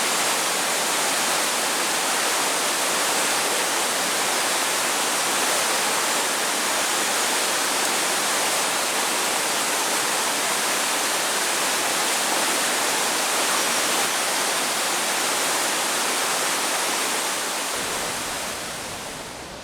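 Steady rush of water tumbling over rocks, as from a stream or waterfall, fading somewhat over the last couple of seconds.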